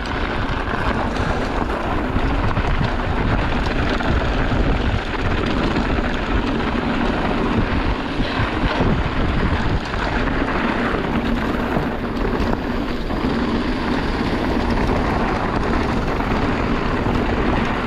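Mountain bike riding a dirt trail: a steady rumble of wind on the microphone and tyres on the ground, with many small knocks and rattles from bumps.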